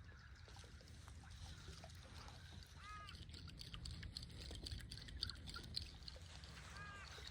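A bird calling twice with short arched honking calls, about three seconds in and again near the end, over faint clicks.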